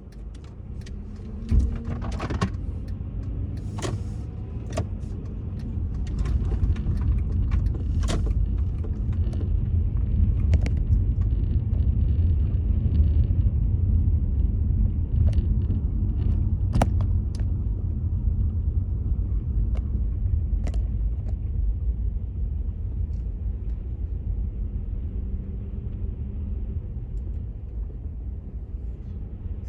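Automatic car wash tunnel running: a steady low rumble with scattered knocks and clicks, the sharpest knock about a second and a half in.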